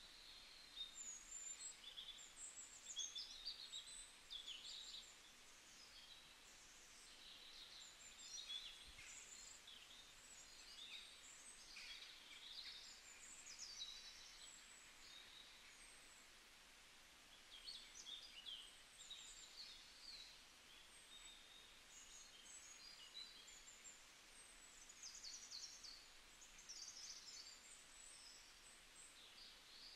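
Faint birdsong: many short, high chirps and trills.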